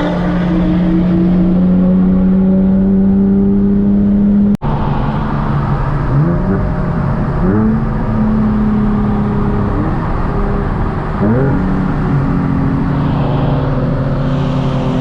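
Sports car engine running hard at a steady pitch, then after a cut about 4.5 seconds in, revving up in several quick climbs in pitch that each settle into a new steady note.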